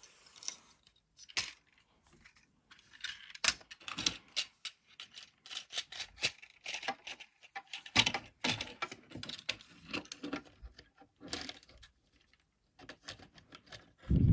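Plastic clicks, taps and rattles of a Transformers figure and its upgrade-kit parts being handled and pressed together, in quick irregular bursts.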